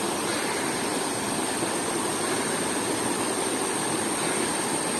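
Small waterfall's water rushing steadily.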